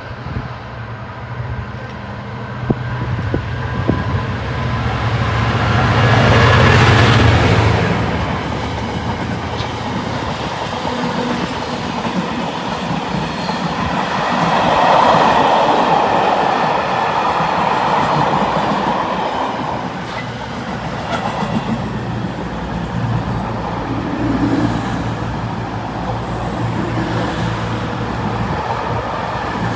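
A locomotive-hauled train running past, with a low steady hum that is loudest about seven seconds in, then the rolling clatter of its wheels on the rails.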